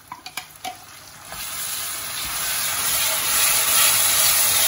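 Chopped tomatoes going into hot oil and fried onion masala in a kadai: a few light knocks of the wooden spatula scraping them from a glass bowl, then sizzling that builds and grows loud as the wet tomatoes are stirred into the hot fat.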